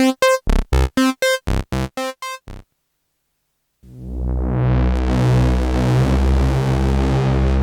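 Dreadbox Typhon monophonic analog synthesizer playing a quick sequence of short pitched notes, about three a second, that fade out about two and a half seconds in. After a second of silence the next preset enters as a low sustained note that swells in and grows brighter, as if the filter were opening.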